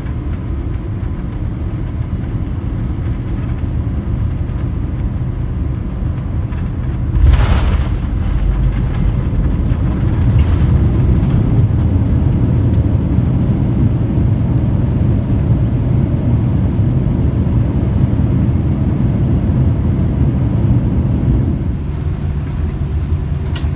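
Cabin noise of a Boeing 787-9 landing: a steady low rumble, a thump about seven seconds in as the wheels touch down, then a louder rumble of the landing roll that eases off near the end.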